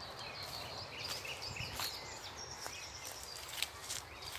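Wild birds calling in the forest, short high thin chirps and whistles, with a few scattered sharp clicks.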